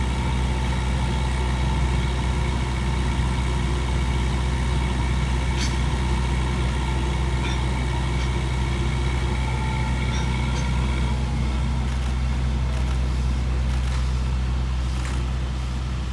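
Steady drone of an engine running at idle, a deep hum with several steady tones above it, unchanging throughout, with a few faint light ticks.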